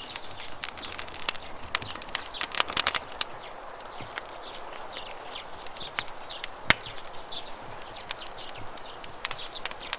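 Wood campfire crackling and popping, with a quick run of pops around the third second and one sharp, loud pop about two-thirds of the way through, over a steady rush of running river water. Small birds chirp now and then.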